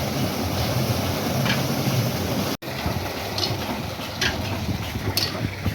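Old Ruston Hornsby 35 HP oil engine running steadily, with regular sharp ticks about once a second or two over its low running noise. The sound drops out for an instant a little under halfway through.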